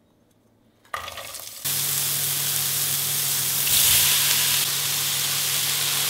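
Onions and mushrooms frying in hot oil in a frying pan: the sizzle starts suddenly about a second in as the food hits the oil and keeps on steadily, loudest a little past the middle.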